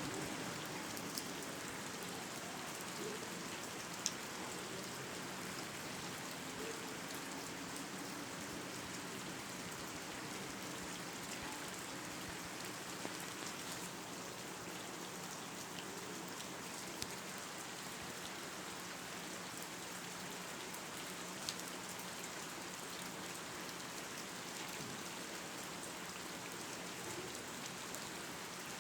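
Steady, even hiss with a few faint clicks scattered through it.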